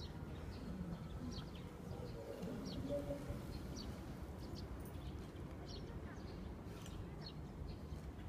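Small birds chirping in short, scattered calls over a steady low outdoor rumble, with a faint murmur of voices a couple of seconds in.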